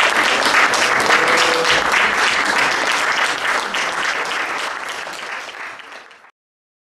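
Concert audience applauding, a dense patter of many hands clapping that thins and fades over the last second before cutting off abruptly about six seconds in.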